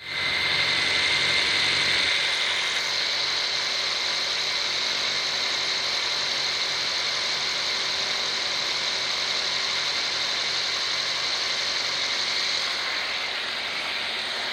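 Mazda ZJ-VE 1.3-litre four-cylinder engine running steadily at idle, with a slight change in its tone about two seconds in.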